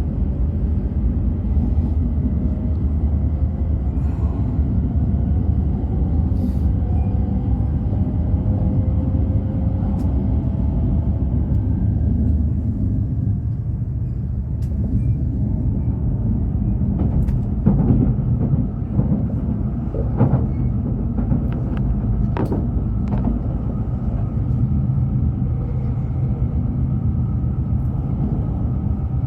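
E5 series Shinkansen train running with a steady low rumble. A faint whine rises slowly in pitch through the first half, and a few sharp clicks or knocks come in the second half.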